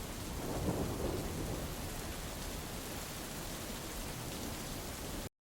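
Steady rain hiss from a thunderstorm, with a low rumble of thunder swelling about half a second in. The sound cuts off abruptly near the end.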